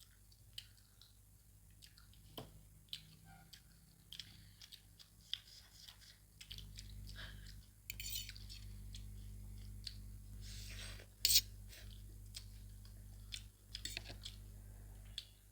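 People chewing and eating noodles, with scattered short clicks and taps and a louder brief clatter about eleven seconds in. A steady low hum comes in about halfway through.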